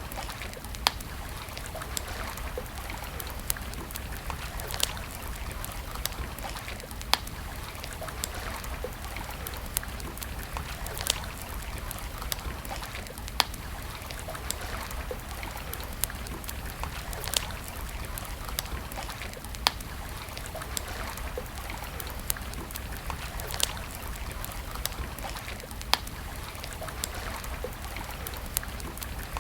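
Wood campfire crackling, with sharp pops every second or two over a steady rushing hiss.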